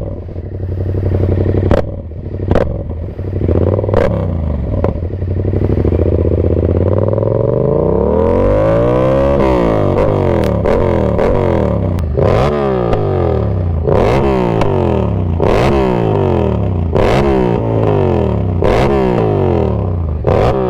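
Yamaha MT-07's parallel-twin engine running loud through an unbaffled GRMOTO full exhaust system, idling steadily for several seconds, then revving up and down in pitch over and over. Sharp clicks are heard now and then.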